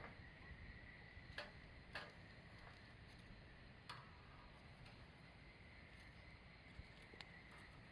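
Wood campfire burning quietly, with a few scattered sharp crackles and pops, about four in eight seconds, over a faint steady high tone.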